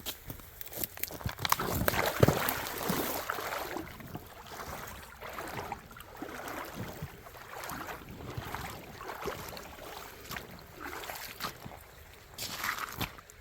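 Footsteps with water sloshing and splashing in a shallow creek, irregular, loudest about two seconds in and again near the end.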